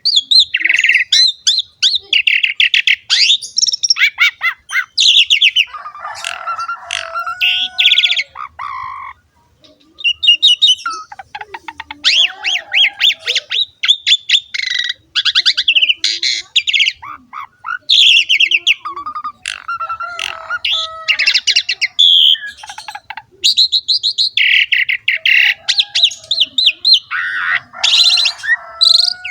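Asian pied starling (jalak suren) singing a long, rapid, chattering song of fast clicky notes and whistles in phrases with short pauses, one of them a clear break about nine seconds in.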